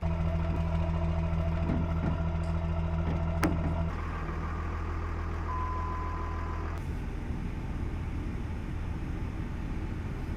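Motor vehicle engine running steadily, a low droning hum; the sound shifts abruptly about 4 seconds in and again about 7 seconds in. A thin steady high tone comes in briefly near the middle.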